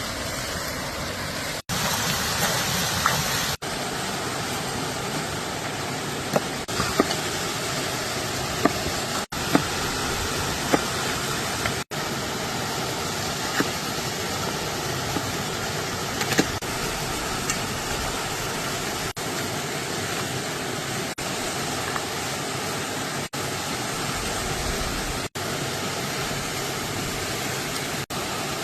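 Steady rush of water from a waterfall, broken by several abrupt split-second gaps, with a few short clicks or knocks.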